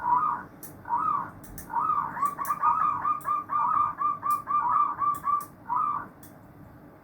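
Zebra dove (perkutut) cooing: two separate notes, then a quick run of coos at about three a second, ending with one more note about six seconds in.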